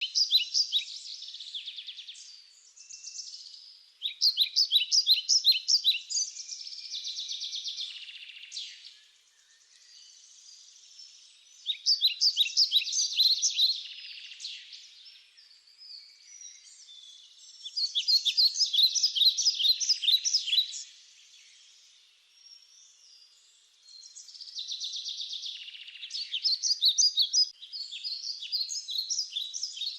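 High-pitched chirping trills, fast rapid pulses repeated in bouts of about two to three seconds that come back every few seconds, with quieter chirping in between.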